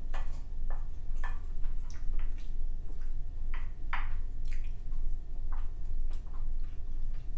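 Close-miked wet mouth sounds of someone chewing food: a string of short, irregular smacks and clicks.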